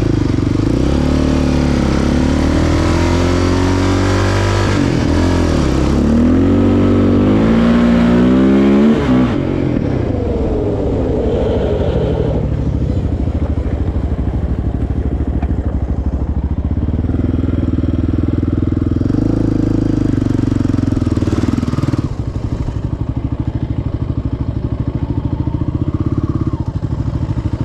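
Single-cylinder four-stroke ATV engine revving up and down several times over the first nine seconds or so, then running at a steady low speed.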